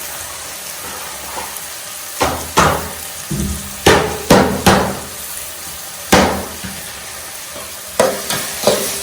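Food sizzling in a pan, with a utensil knocking and scraping against the pan about ten times from about two seconds in, as the food is stirred.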